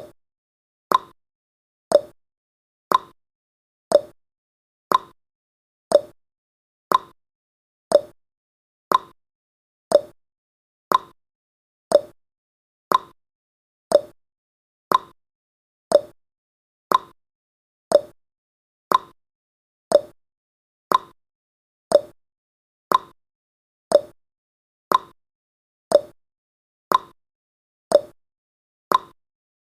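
Countdown timer tick sound effect: one short, sharp tick every second, evenly spaced, with silence between.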